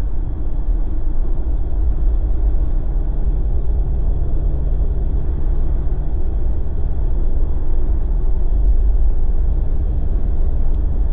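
Steady low rumble of a Jeep driving on a snowy road: road noise from the tyres mixed with the engine running at cruising speed.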